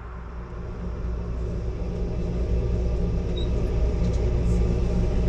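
Diesel train rumbling with a steady low engine drone, growing steadily louder.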